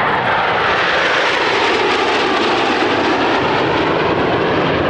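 Aircraft engine noise from a display aircraft flying past, steady and loud, its highest part slowly fading as the aircraft draws away.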